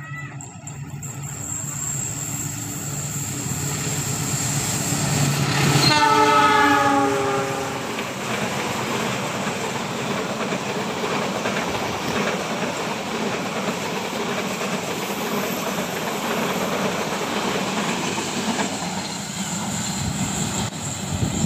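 Train approaching and passing on the rails: the rumble builds, the locomotive horn sounds once for about two seconds with its pitch sagging slightly, then the wheels clatter steadily over the track as the cars go by.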